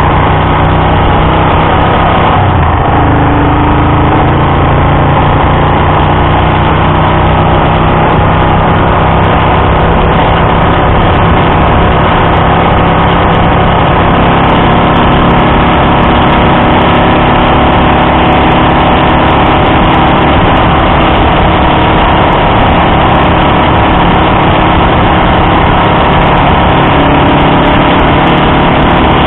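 Honda Dream CL250's air-cooled parallel-twin engine running steadily at cruising speed, heard from a camera mounted on the bike, its note shifting slightly in pitch a few times.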